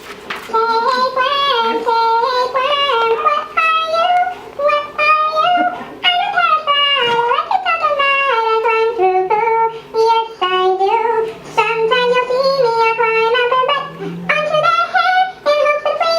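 A high voice singing a cheerful commercial jingle, one melodic line with stepping and gliding notes.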